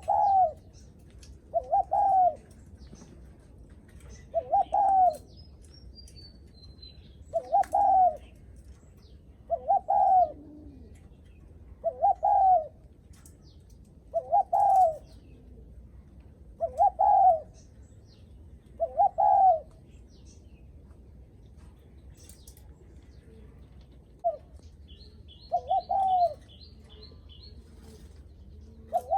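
Spotted dove giving its greeting coo ('gù') to a visiting dove: short coos, each rising and falling, repeated about every two to two and a half seconds. Near the end, faint quick high chirps from a small bird join in.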